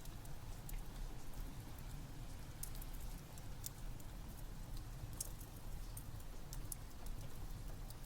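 Steady rain with a low rumble, mixed with scattered sharp crackles and pops from a burning wood fire.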